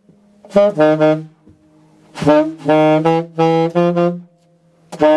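Alto saxophone playing short, detached notes in its low register, without the octave key: a couple of notes, a pause, then a walking run of repeated notes, and a new phrase starting near the end.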